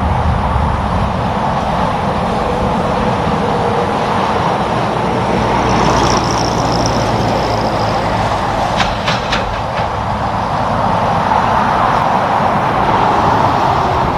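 Highway traffic with a semi truck running, a steady rush of tyres and engine noise. A brief high whine comes in about halfway, followed by a few short clicks.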